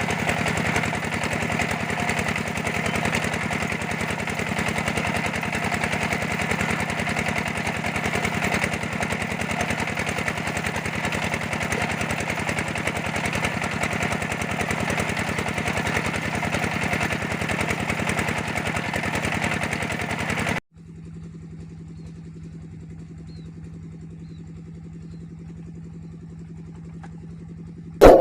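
Engine of a clay-brick press machine running steadily with a fast, even beat. About two-thirds of the way through it cuts off abruptly and a quieter, muffled steady hum takes over, with a sharp click at the very end.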